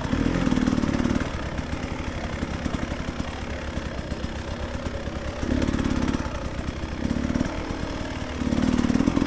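Dirt bike engine running at low speed, swelling louder several times as the throttle is opened: at the start, around the middle and near the end. In between it drops back to a lower, steady run.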